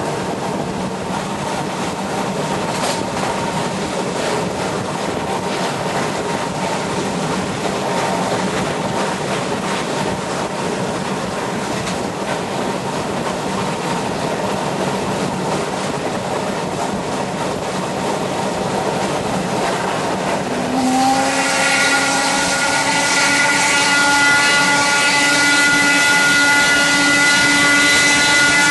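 Steam locomotive BDZ 46 03 running, a steady rushing noise of the moving train. About two-thirds of the way in, its steam whistle sounds one long, steady blast that holds to the end.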